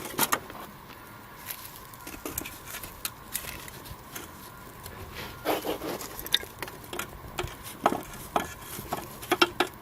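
Dry bird's nest burning after catching a ferro-rod spark, crackling with irregular sharp pops that come thicker in the second half.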